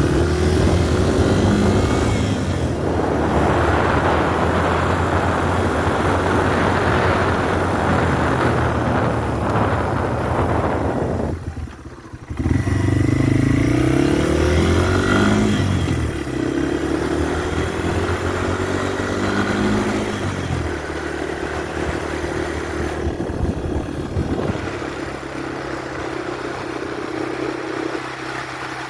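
Yamaha TW200's single-cylinder four-stroke engine running as the motorcycle is ridden, its note rising and falling with the throttle and gear changes. The sound drops away briefly about twelve seconds in, and the engine settles to a steadier, lower note near the end.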